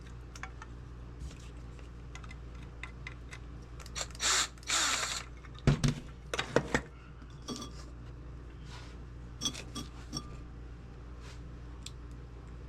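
Metal lantern parts being handled and fitted together: scattered clicks and knocks, a noisy rasping burst lasting about a second near the middle, then a quick run of sharper knocks.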